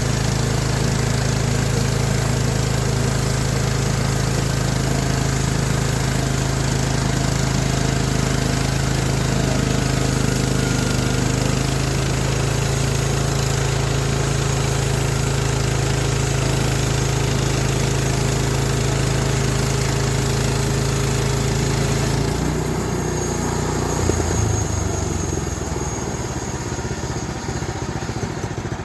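Petrol engine of a small sawmill running steadily at high speed under cutting load. About 22 seconds in the note drops and turns unsteady.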